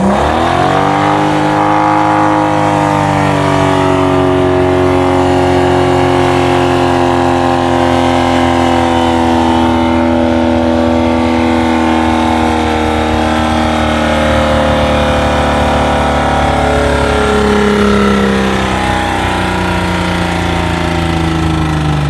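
BMW E60 530d's M57 3.0-litre straight-six turbodiesel in runaway. The revs shoot up sharply in the first second or two and then hold at very high revs on their own, sagging only slightly near the end. This is an uncontrolled overspeed that is killing the engine.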